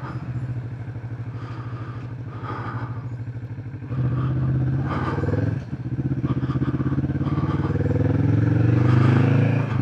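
Motorcycle engine running steadily, then louder from about four seconds in. After a brief dip like a gear change about halfway through, its pitch climbs steadily as the bike accelerates.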